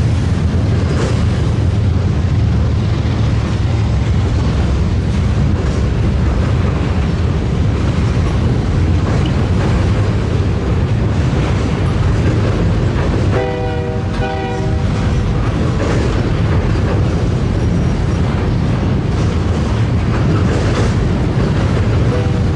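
Train rumbling steadily, with a short blast of the locomotive's multi-note air horn about 13 seconds in, lasting about a second and a half, and another blast starting right at the end.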